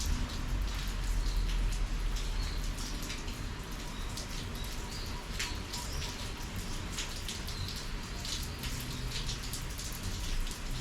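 Steady summer rain falling, with many separate drops ticking sharply on a nearby surface through an even hiss of rain.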